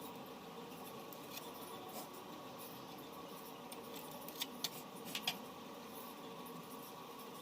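Steady faint hum of a small room with a handful of small, sharp clicks a little past the middle.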